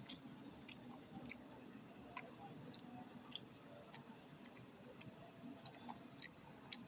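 Faint, irregular small clicks and smacks of a baby chewing fried noodles.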